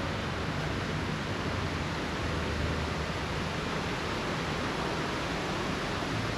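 Steady rushing outdoor noise with no distinct events, the kind of even hiss that comes from surf, wind or distant traffic along a seafront.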